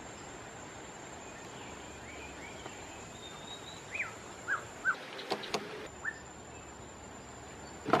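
Outdoor ambience with a thin steady high whine, and several short falling bird chirps from about halfway on. A few sharp clicks come a little past the middle, and louder knocks right at the end.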